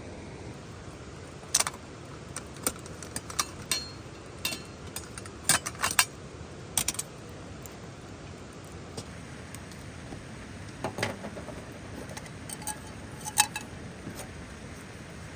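Steady autumn rain with a dozen or so sharp clicks and clinks at irregular moments, clustered in the first seven seconds and again near the end, the loudest about two-thirds of the way through.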